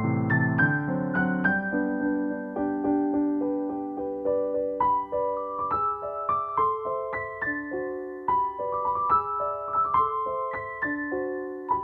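Background piano music: a gentle melody of single struck notes over held lower notes.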